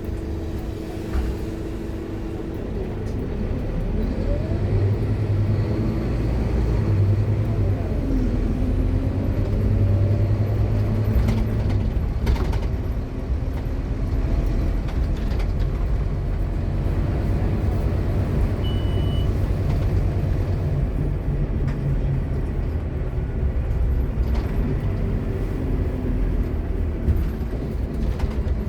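Scania K230UB Omnilink bus under way: a steady low engine drone, with a whine from its ZF Ecomat automatic gearbox rising in pitch a few seconds in.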